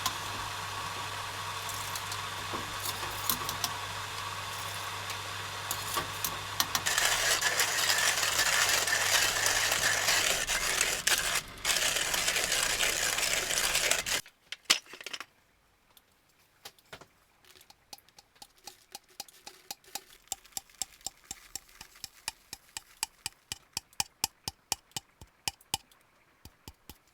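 A vehicle engine running under a steady rushing hiss of rain, the hiss growing louder partway through, then both cutting off abruptly about halfway. After that, scattered sharp ticks of raindrops on the vehicle's roof come faster and faster.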